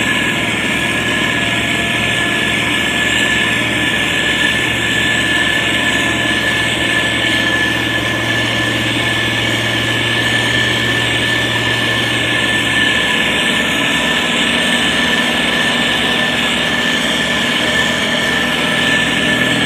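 SANY STG190C-8S motor grader's diesel engine running steadily, with a steady high whine over the engine note; the low engine tone changes about two thirds of the way through.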